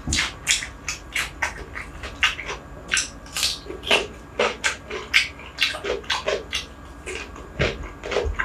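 Close-miked eating: wet chewing and lip-smacking of hand-eaten rice, with crisp bites and chewing of a raw cucumber stick. The mouth sounds come as a quick, uneven run of clicks and smacks.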